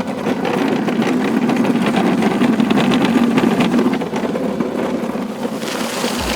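Motor of a Razor mini dirt bike running steadily, a loud drone with a fast chattering rattle.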